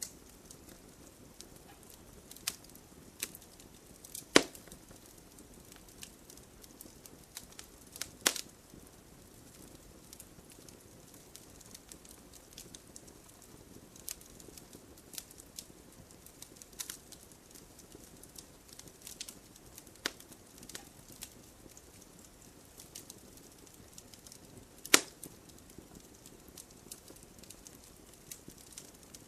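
Campfire wood crackling: scattered sharp pops and snaps over a low steady hiss of burning, with three louder pops standing out, one about four seconds in, one about eight seconds in and one near the end.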